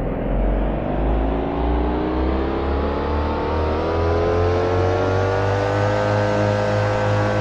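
Adashi air-conditioner condenser unit starting up: its motor whine rises steadily in pitch for about six seconds, then settles into a steady running tone over a low throbbing hum.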